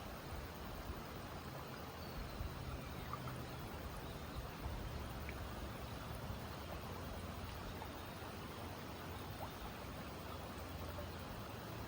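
Hatea River water flowing, a steady even noise.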